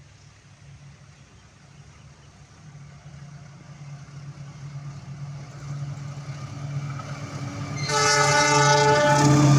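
Diesel locomotive engine drawing closer, its low hum growing steadily louder, then a horn blast of about a second and a half near the end as the train approaches.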